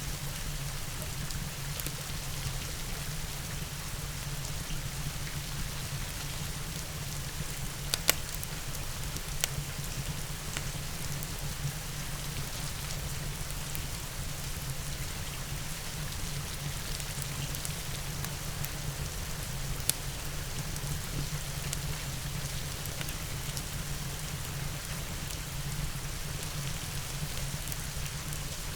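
Steady rain falling over a low, even rumble, with a few sharp crackling pops from a wood fire: two close together about eight and nine seconds in, and one about twenty seconds in.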